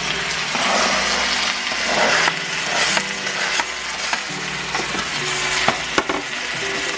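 Stir-fry sizzling in a hot wok as carrot strips are tipped in and stirred through frying beef and onions. There are a few sharp clicks of the utensil against the wok near the end.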